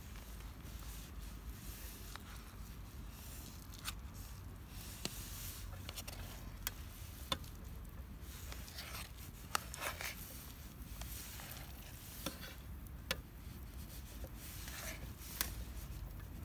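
Faint rubbing and scraping from handling cooking utensils, with scattered small clicks and taps at irregular intervals.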